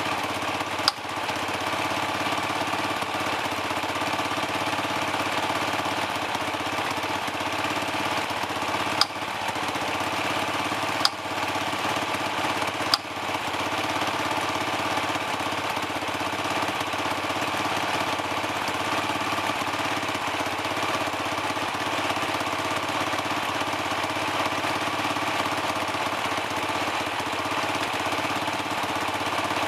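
Dirt bike engine idling steadily as it warms up, with a few short sharp clicks in the first half.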